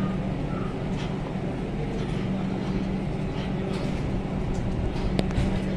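Steady electrical hum of a Vande Bharat Express electric trainset standing at the platform, with a single sharp click about five seconds in.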